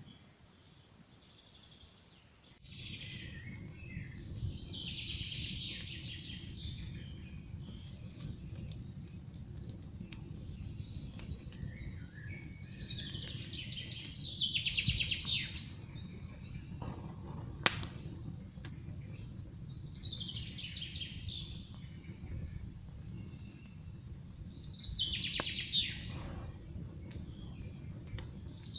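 Campfire crackling with scattered pops, one sharp pop standing out near the middle, over a steady low rustle that grows louder a couple of seconds in. A songbird repeats a short falling trill every few seconds.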